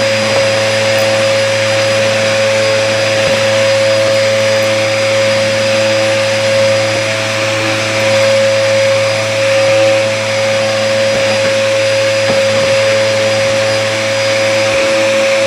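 Hoover vacuum cleaner running steadily with a constant whine, the loudness swelling slightly now and then. The vacuum is clogged, by its owner's account.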